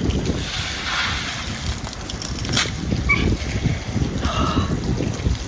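Gusting storm wind rumbling on the microphone, with water splashing and running.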